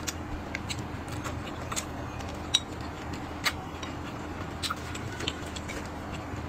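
Chewing and wet mouth sounds of someone eating, with scattered sharp clicks, the loudest about two and a half seconds in, over a steady low hum.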